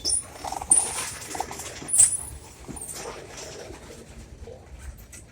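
Freight cars rolling past with short, high-pitched metallic wheel squeals, four of them in the first three seconds, over clicking and a low rumble.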